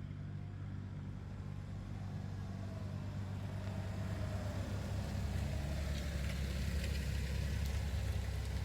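Daihatsu Hijet Cargo kei van's small three-cylinder engine running steadily, a low hum that grows gradually louder.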